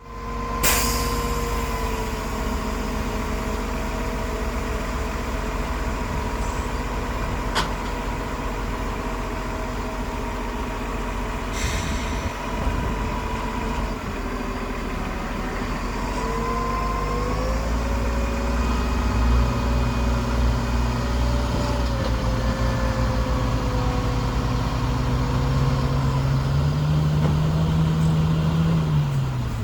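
Heavy diesel engines of earthmoving machinery running steadily. About two-thirds of the way in one engine grows louder under load, and near the end its pitch rises, then drops. A few sharp clicks sound over it.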